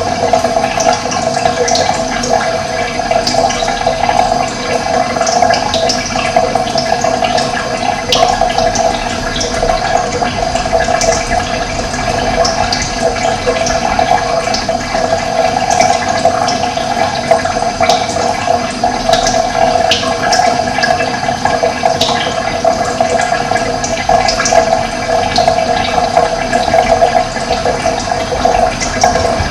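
Running water flowing steadily, with brief high bird chirps scattered throughout.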